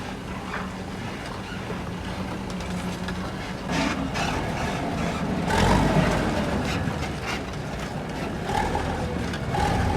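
Heavy diesel machinery engine running steadily, growing louder about four seconds in and again near the middle, with some knocks and rattles.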